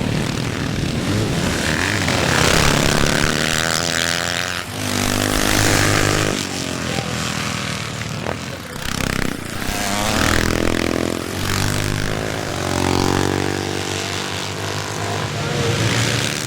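Classic motocross bikes racing on a dirt track, several engines revving up in repeated rising surges and dropping back as the riders accelerate and pass.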